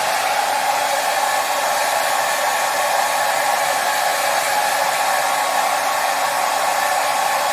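Hair dryer running steadily: an even, unbroken whooshing hiss with no change in speed.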